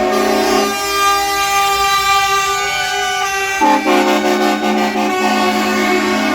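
Loud truck air horns held in long blasts, several notes sounding together, the chord changing about a second in and again a little past halfway.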